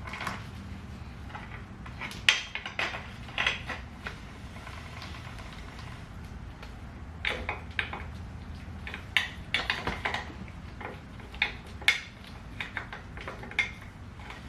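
Irregular sharp metallic clinks and taps of hand tools and metal parts being handled, in scattered clusters, over a low steady hum.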